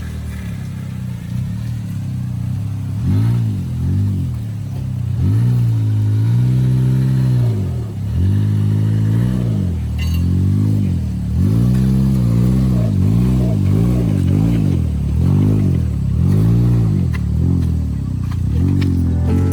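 An off-road 4x4's engine revving up and down over and over, each rev a rise and fall in pitch about every second or two, with a longer held rev about a third of the way in.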